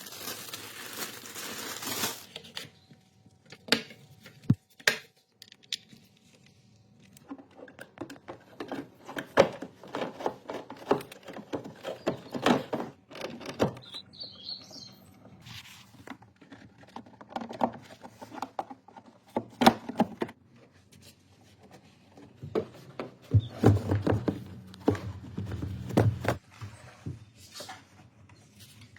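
Irregular clicks, taps and knocks of tools and parts being handled during engine work, with a brief rush of noise at the start and a low hum for a few seconds near the end.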